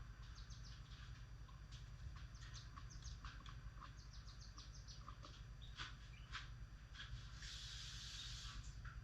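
Pet birds chirping faintly in quick, short, high chirps throughout, with a harsher, noisy burst of about a second near the end, over a steady low hum.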